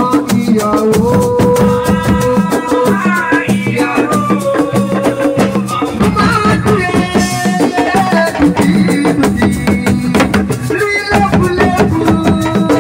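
Assiko band music: fast, dense drumming with a held melody line over it, at a steady level.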